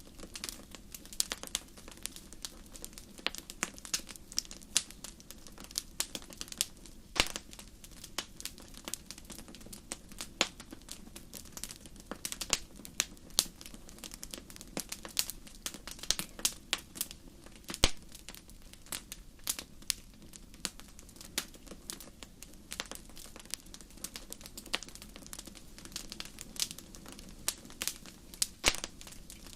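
Wood fire crackling: irregular sharp pops and snaps, a few louder ones, over a faint steady low rumble of burning.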